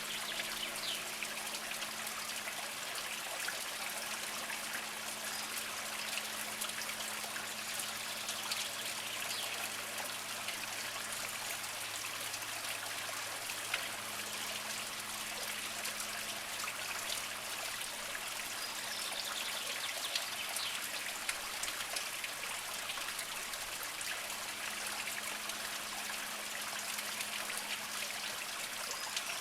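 A small mountain spring trickling over mossy rocks: a steady, gentle patter of running water with many small drips and splashes.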